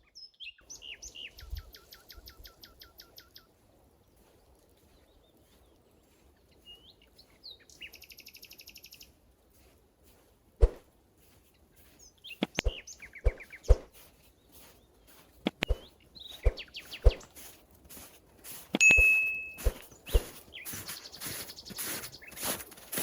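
Wild birds singing repeated trilled phrases, twice in the first ten seconds. From about halfway, a run of sharp snaps and knocks follows, thickening near the end into a dense crackling rustle.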